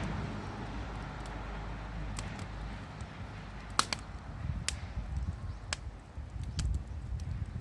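Wood fire crackling, with sharp pops at irregular intervals, the loudest a little under four seconds in, over a low rumble.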